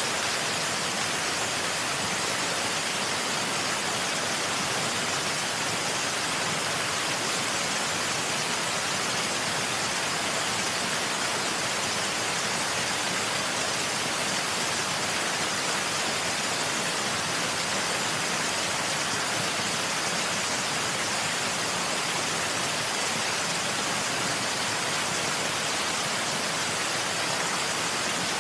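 Waterfall rushing steadily: an even, unbroken hiss, mostly high with little low rumble.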